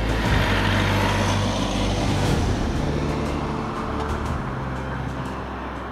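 Jet airliner's engines: a broad rushing noise with a steady low hum, swelling about half a second in and then slowly fading away.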